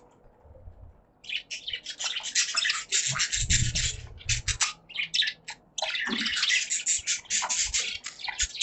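Budgerigars chattering and chirping in quick, dense runs of high notes, starting about a second in, with a short break around the middle.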